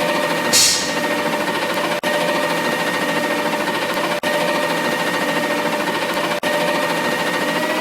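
Garbage truck's engine and machinery running steadily, with a fast rattle and a steady whine, and a short hiss of air about half a second in.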